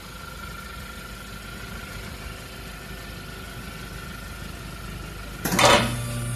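Hyundai Tucson 1.6T turbocharged four-cylinder idling steadily through an aftermarket quad-tip rear muffler. A sudden loud burst comes about five and a half seconds in.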